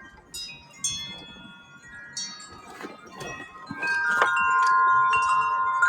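Metal wind chime ringing in the wind: tubes struck irregularly, several clear ringing tones overlapping, growing fuller and louder about four seconds in.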